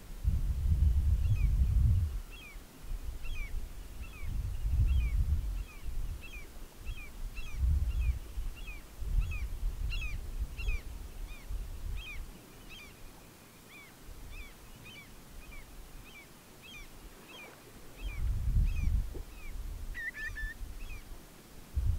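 A bird calling over and over in short down-slurred notes, about two a second, in a natural outdoor ambience. Gusts of wind rumble on the microphone every few seconds and are the loudest thing.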